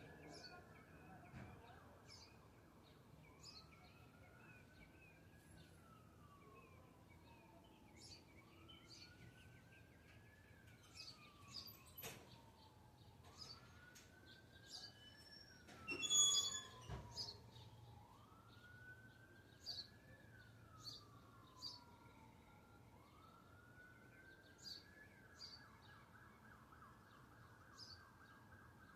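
Distant emergency-vehicle siren wailing, slowly rising and then falling in pitch about every five seconds, with short high bird chirps scattered over it. A brief, louder sharp sound comes about sixteen seconds in.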